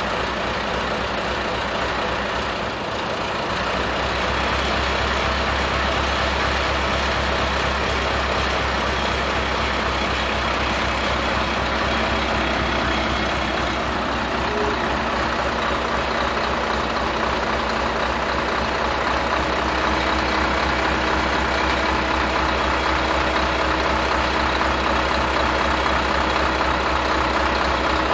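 Scania 143 truck's V8 diesel engine running steadily, a little louder from about four seconds in.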